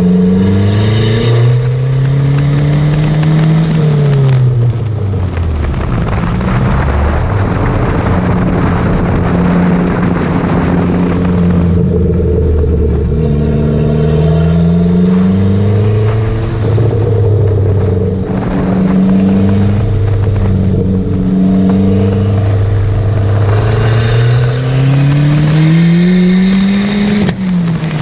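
Dodge Neon SRT-4's turbocharged 2.4-litre four-cylinder engine being driven hard on track. The revs climb under full throttle and fall back at gear changes and lifts several times, with the longest climb near the end, over a steady rush of wind and road noise.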